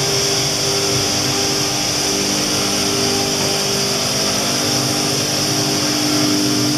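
SCM Olimpic K203 edgebanding machine running steadily: a constant motor hum made of several steady tones, with a high whine over it.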